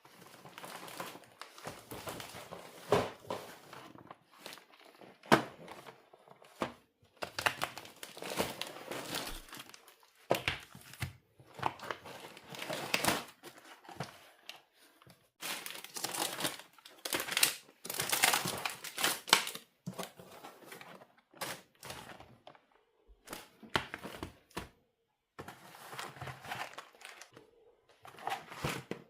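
Packaging crinkling and rustling as it is handled, in irregular bursts with short pauses and a few sharp knocks.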